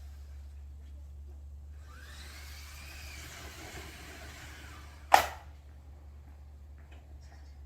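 A steady low hum, with one sharp, loud knock about five seconds in that dies away quickly.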